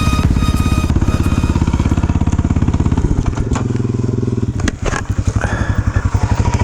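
Single-cylinder dirt bike engine running at low speed, its firing pulses loud and close. The engine note drops about three seconds in, the throttle closes briefly near five seconds, then it pulls on steadily again.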